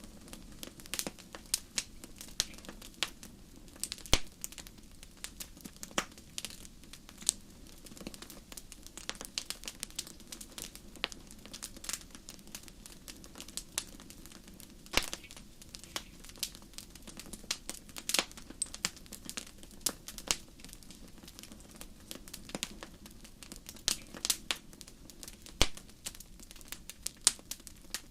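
Wood campfire crackling: frequent, irregular sharp snaps and pops, a few of them noticeably louder, over a faint low steady background.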